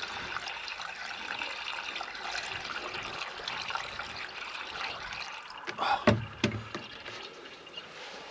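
Water poured from a container into the cooling system filler of a Fordson Power Major tractor, trickling and splashing steadily. A few sharp knocks about six seconds in, after which the pouring is quieter.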